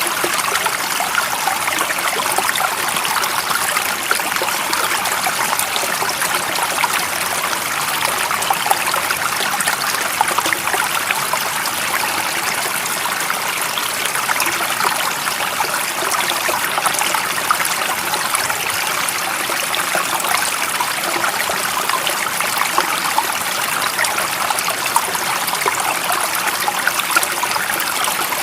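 A stream of water running and trickling steadily, an even rushing splash with no breaks.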